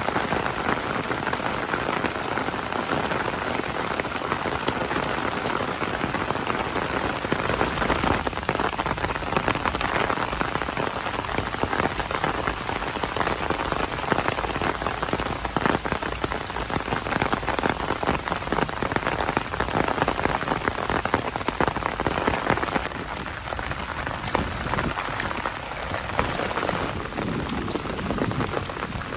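Steady rain, a dense even hiss of many small drop hits.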